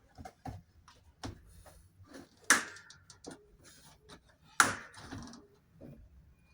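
Scattered knocks and clicks of parts and tools being handled while reassembling a Whirlpool washing machine, with two sharp, loud knocks about two and a half and four and a half seconds in.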